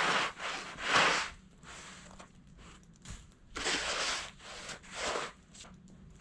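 Snow shovel scraping and scooping heavy, wet snow in several separate rough strokes of about half a second each.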